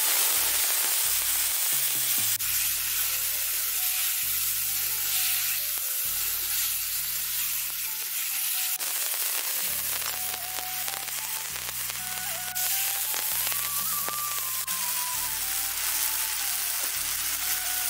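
Wet ground spice paste sizzling steadily as it fries with potato wedges in a hot kadhai over a wood fire, with a spoon stirring it now and then. Soft background music with sustained notes plays underneath.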